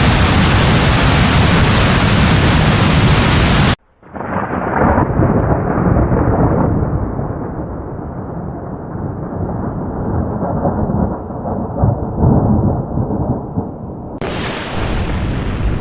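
Heavy rain as a steady loud hiss that cuts off suddenly after almost four seconds. A long rolling thunder rumble follows for about ten seconds. Near the end a sharp thunderclap cracks in.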